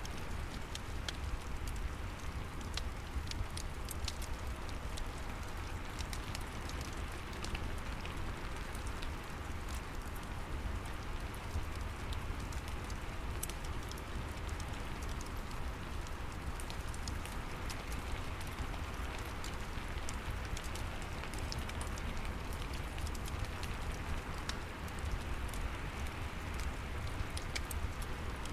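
Steady rain with a low rumble, mixed with a fireplace crackling in scattered small pops and ticks.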